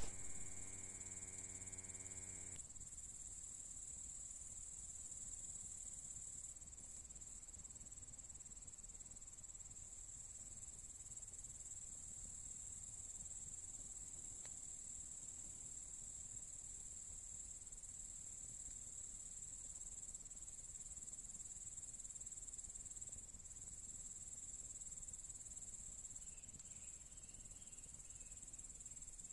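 Insects chirring in a steady, high-pitched drone. For the first two and a half seconds a low hum with overtones sounds under it, then stops abruptly.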